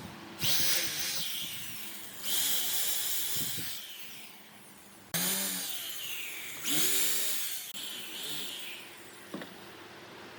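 Power tool cutting wood in four bursts of about a second each, its motor pitch sweeping up and down with each pass, with a steady hum running between them.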